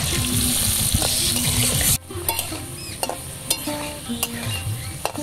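Spiced potato chunks frying in hot oil in a steel kadai, sizzling, while a spatula stirs and scrapes them. The sizzle drops suddenly about two seconds in and carries on quieter, with light clicks of the spatula against the pan.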